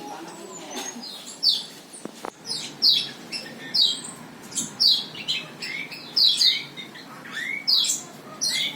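Small birds chirping: a continual run of short, high chirps that each slide downward, coming several a second at times, with a single sharp click about two seconds in.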